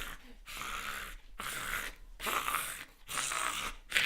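A person breathing hard through the mouth: about four heavy breaths, each under a second, from the burn of jalapeño hot sauce.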